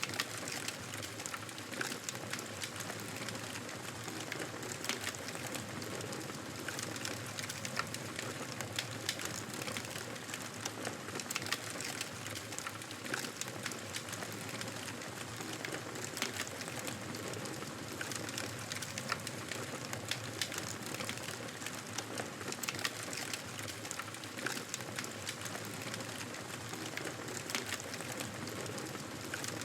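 Wood fire in a fireplace crackling steadily: a soft continuous hiss with frequent small, irregular pops and snaps.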